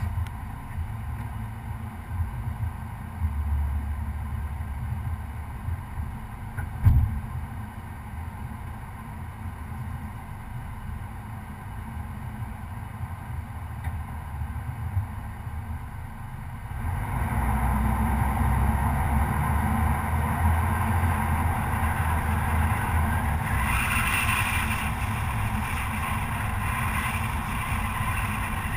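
Stock Chevrolet Colorado pickup truck driving a dirt trail, its engine rumbling steadily, with a single knock about seven seconds in. The engine gets louder a little past halfway and stays louder, as the truck is driven harder.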